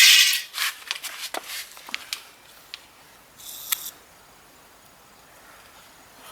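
Metal clutch parts being handled. A scrape opens, then a quick run of light clinks and clicks, and a short scrape with a click partway through.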